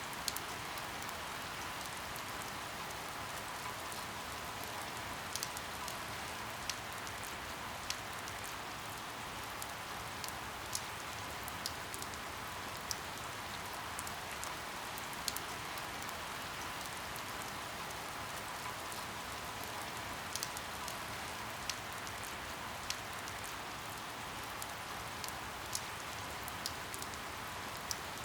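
Steady rain falling, an even hiss, with louder single drops ticking irregularly every second or two.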